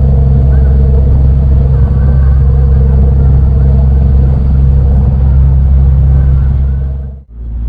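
Harley-Davidson motorcycle engine running steadily with a loud low rumble while riding. The sound drops away for a moment near the end.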